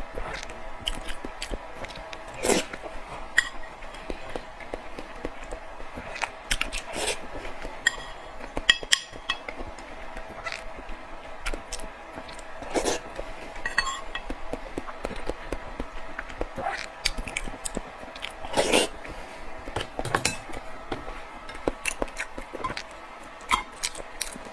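Eating utensils tapping, clinking and scraping against dishes and bowls: many short, scattered clicks and knocks, a few with a brief ringing clink.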